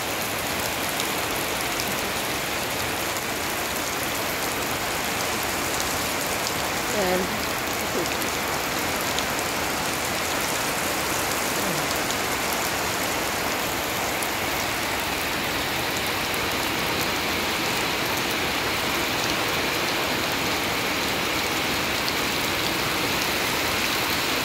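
Steady rain falling on leaves and on puddled, muddy ground.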